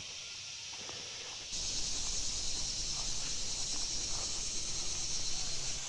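Steady high buzzing of an insect chorus, crickets or katydids, that gets abruptly louder about a second and a half in, when a low rumble comes in under it.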